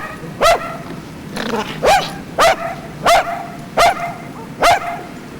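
A dog barking, six sharp barks about every half second to a second.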